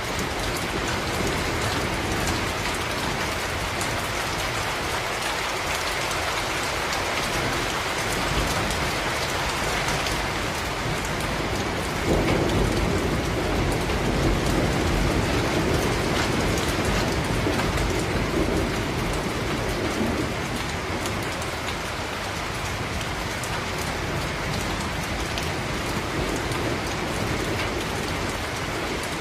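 Steady heavy rain, with individual drops pattering on a surface. About twelve seconds in, a low rumble of thunder swells up and fades away over roughly eight seconds.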